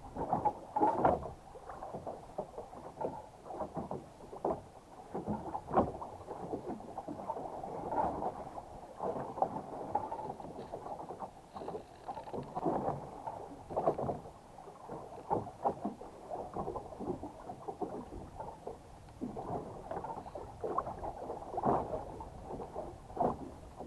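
Water splashing and knocking irregularly against a small boat, in uneven bursts with no steady rhythm.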